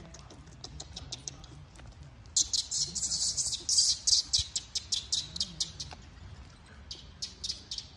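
A small bird chirping in a rapid, high-pitched chatter. It breaks out loudly a couple of seconds in for about three and a half seconds, with a shorter run near the end.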